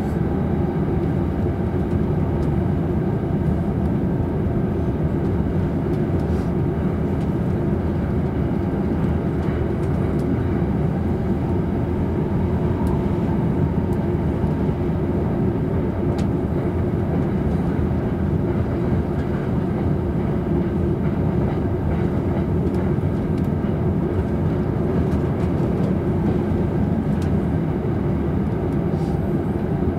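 Running noise of a JR East Tokaido Line local train at speed, heard inside its double-decker Green car: a steady low rumble of wheels on rail, with a few faint clicks.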